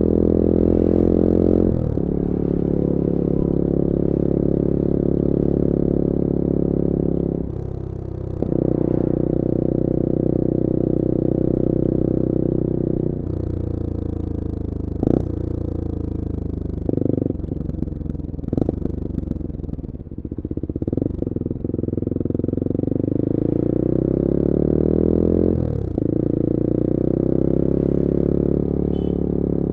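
CF Moto-engined Bullit Hero 250cc four-stroke motorcycle engine running under way, holding steady revs between a couple of quick gear changes in the first half. Through the middle it slows with revs falling and some clatter. It then pulls up in revs and changes gear again near the end.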